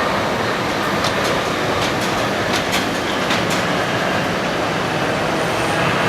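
Steady rushing noise with a run of sharp clicks between about one and three and a half seconds in.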